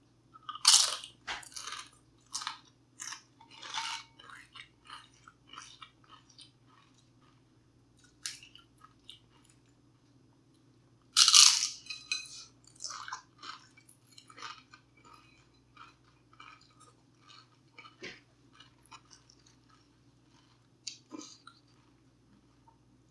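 A person biting into crunchy food close to the microphone: a loud crunch about a second in and another about eleven seconds in, each followed by a run of crunchy chewing.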